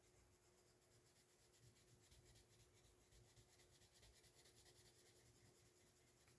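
Faint scratching of a Crayola Colors of the World coloured pencil on paper in quick, repeated shading strokes.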